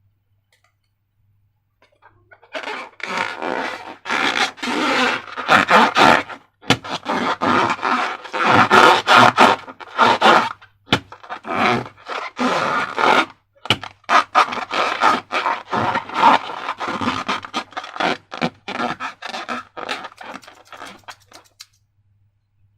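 Rubber scraping and squeaking as slime-filled transparent balloons are handled, in a long series of short, uneven bursts.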